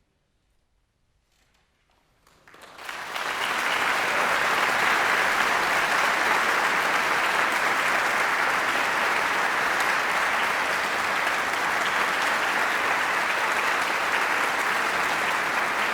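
Near silence for about two and a half seconds, then an audience breaks into applause that builds quickly and holds steady.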